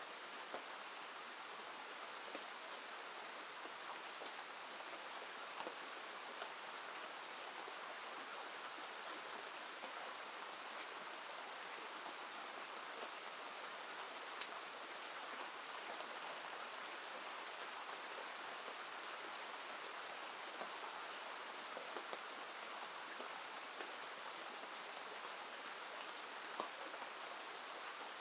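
Steady rain falling, an even hiss dotted with scattered sharp ticks of individual drops.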